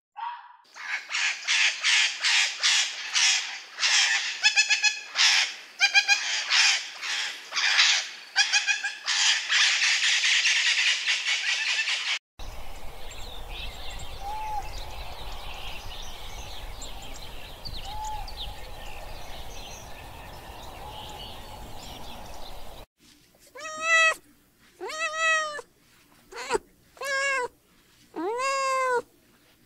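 Rapid high-pitched chirping calls for about twelve seconds, then a quieter stretch of low background rumble, then a young domestic cat meowing repeatedly, about six meows over the last six seconds.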